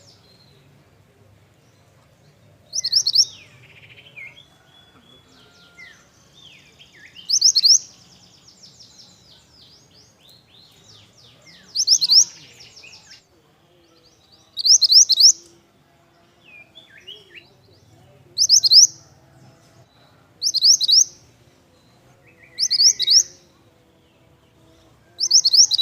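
A songbird known in Indonesia as burung mantenan singing in full voice: short, loud, high, rapidly trilled phrases repeated about every three seconds, eight in all, with softer twittering between them.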